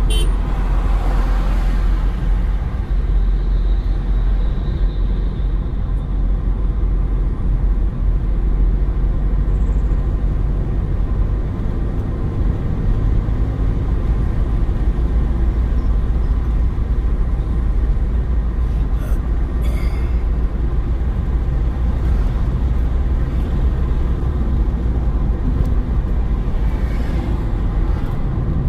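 Car driving at a steady pace: a constant low road and engine rumble, with a few brief clicks about two-thirds of the way through.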